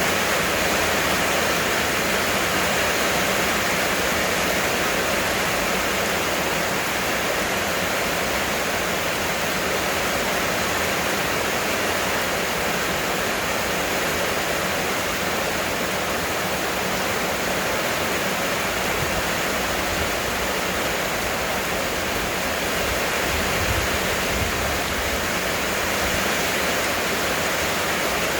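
Heavy rain falling steadily: a dense, unbroken hiss of downpour.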